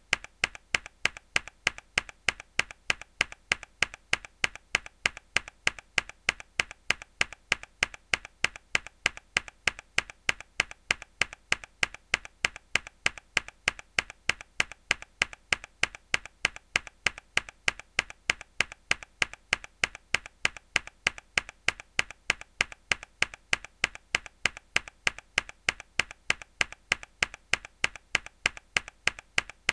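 A mechanical keyboard key struck hard over and over at an even pace of about two strokes a second. Each stroke is a sharp click, with a softer click between the loud ones.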